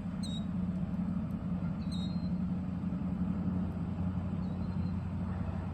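Three faint, high, short killdeer calls, each dropping briefly at its start, spaced a couple of seconds apart, over a steady low hum like an idling vehicle's engine.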